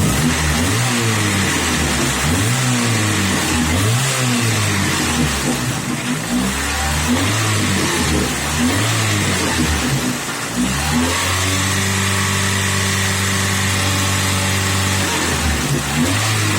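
Opel Ascona four-cylinder engine, a 1.6 fitted with a 1.8 block and pistons, revved in a series of short throttle blips, then held at raised revs for about four seconds and let fall back to idle. The owner reports the engine knocking at idle.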